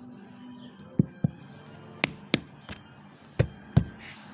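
Six short, sharp knocks in three pairs, each pair a fraction of a second apart, the pairs about a second apart.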